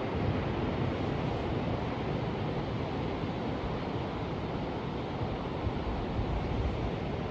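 Ocean surf heard as a steady, unbroken wash of noise, heaviest in the low end.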